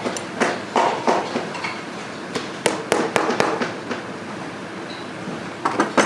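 Irregular sharp knocks and taps of hand tools working on a boot during a resole, over a steady background noise.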